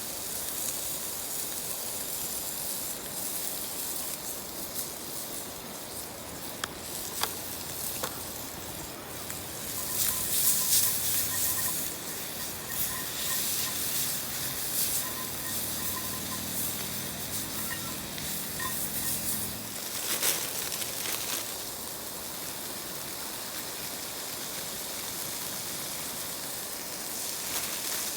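Food sizzling and hissing in a pan over a campfire, with a few sharp clicks in the first half.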